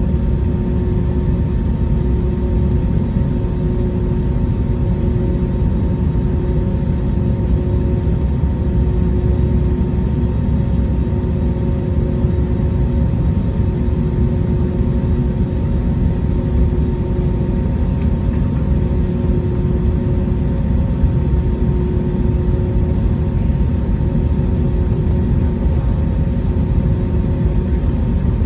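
Airbus A321neo airliner with its engines running: a steady low rumble with a few constant hums over it, holding even throughout.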